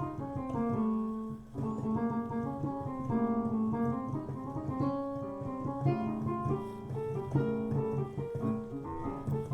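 Piano playing a quick improvised melodic line of short notes over a repeating low accompaniment, a run using the altered dominant scale in frevo style.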